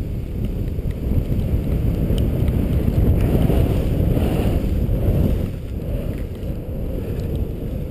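Wind buffeting the microphone: a loud, low rushing rumble that eases a little about five and a half seconds in.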